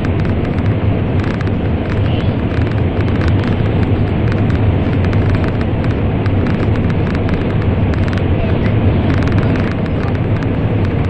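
N700 Series Shinkansen running at speed through a tunnel, heard inside the passenger car: a loud, steady rumble with a low drone and light ticks of rattle throughout.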